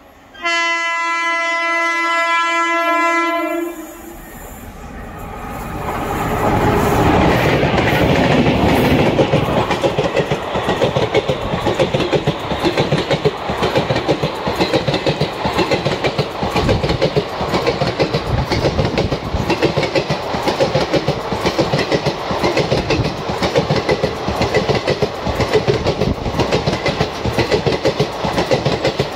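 Indian Railways locomotive horn sounding one long steady blast of about three seconds. Then a passing train's wheels clatter over the rail joints in a fast, steady rhythm, building up over a few seconds and staying loud.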